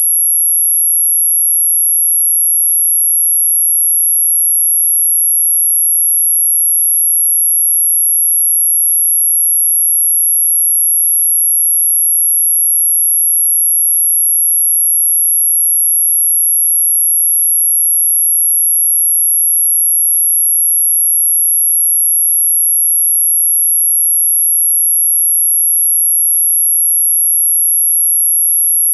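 A single electronically generated pure tone held perfectly steady at a very high pitch, played as a mosquito-repellent sound.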